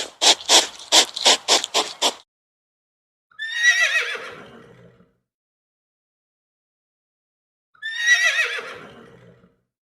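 A horse whinnies twice, about four seconds apart; each call wavers and falls in pitch over about a second and a half. Before the first whinny, about eight quick, sharp puffs of noise come in the first two seconds.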